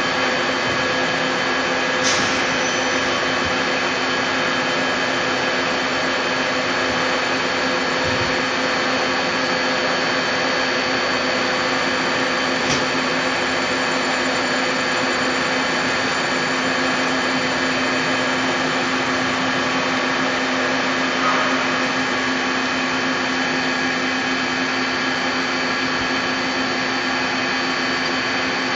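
Steady whirring hum of a Puma 350 CNC lathe running, with several constant tones over the noise. A few faint clicks come about two, thirteen and twenty-one seconds in.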